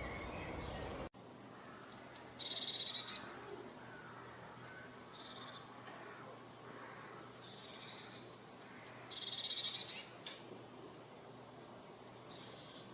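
A small songbird singing the same short phrase about five times, each a quick run of high down-slurred notes followed by a lower rapid trill.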